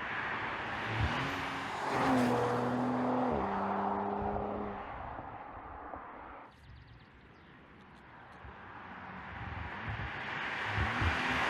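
Audi RS5 Sportback's 2.9-litre V6 running as the car drives by. The engine note rises and steps up in pitch during the first few seconds and then fades to quiet in the middle. Near the end the sound of a car builds again as it approaches.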